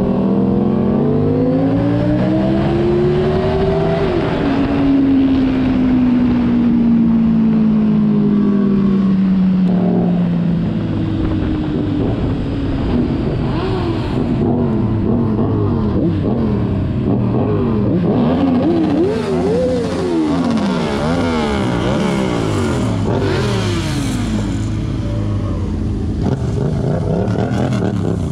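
Several car engines revving, their pitch rising and falling: one slow, falling engine note in the first ten seconds, then quick overlapping rev blips from several engines at once.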